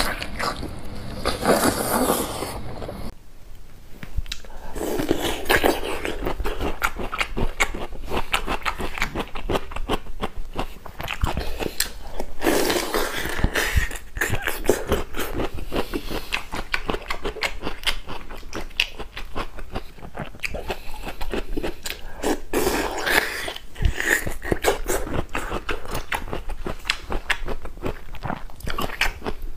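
Close-miked eating sounds: wet chewing, biting and smacking of saucy food, with a dense run of small clicks and crunches. There is a short lull about three seconds in.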